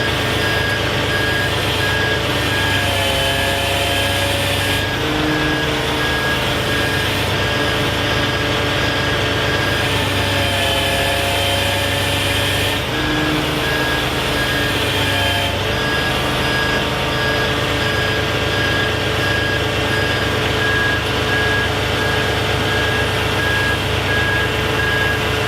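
Kenworth T880 hook truck's backup alarm beeping steadily over its diesel engine running. The engine note rises and falls back three times.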